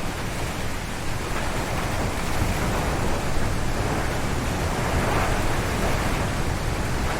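Strong wind gusting through forest trees: a steady rushing noise with a deep rumble beneath it, swelling slightly about five seconds in.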